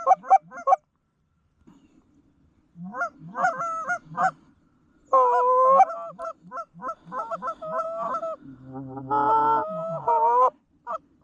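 Goose honks and clucks in quick bursts: a short run at the start, another about three seconds in, then a longer run of calling from about five seconds until near the end, with a lower, steadier note mixed in for a while.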